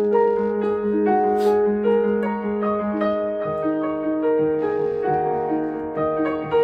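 Yamaha MX61 synthesizer playing a piano-like voice: a melody of separate notes over held low notes, with the bass moving to a new note about halfway through.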